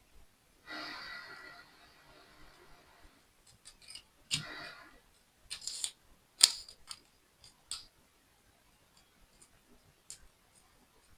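Small plastic building parts being handled and pressed together: a short rustle about a second in, then a string of sharp clicks and taps, the loudest about six and a half seconds in.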